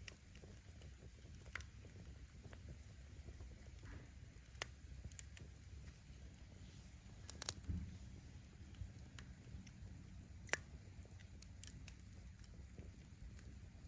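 Wood fire crackling: scattered sharp pops of burning firewood over a faint, steady low rumble, with a short cluster of pops a little past halfway and one sharp crack about three-quarters of the way through.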